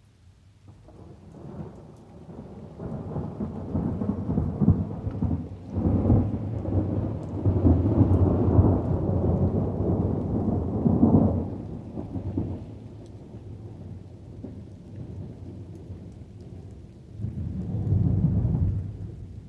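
Thunder rumbling over steady rain: a long roll builds about a second in, stays loud for several seconds and dies away around twelve seconds, then a second rumble swells near the end.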